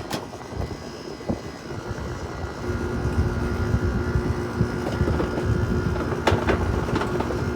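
Haier 5,200 BTU window air conditioner running, its fan and compressor making a steady drone with a low rumble. A steady hum joins about three seconds in, and the sound grows slightly louder.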